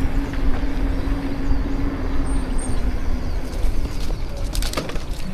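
Wind buffeting the microphone and road rumble from an electric-assist bicycle ride, with a steady low motor hum that stops about three seconds in. A few sharp rattles and short high chirps come near the end.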